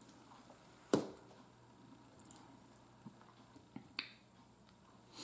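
Quiet eating sounds while chewing pork steak: a few short, sharp mouth smacks and clicks, the loudest about a second in and another near four seconds.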